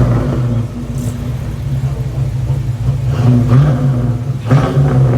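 A car engine running with a steady low hum, its pitch rising briefly twice near the end as it is revved a little.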